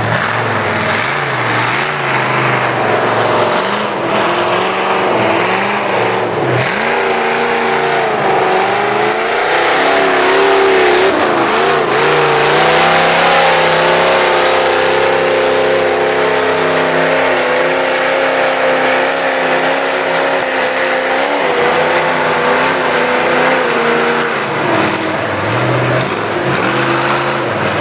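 A 4x4 mud truck's engine revving hard under load. The pitch rises and falls repeatedly at first, is held high and fairly steady through the middle, and eases off near the end, over a constant hiss.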